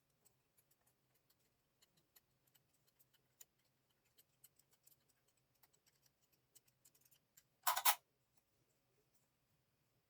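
Faint, irregular small clicks and taps, like small parts and tools being handled, with one short louder rasp or clatter, two quick peaks, a little before the end.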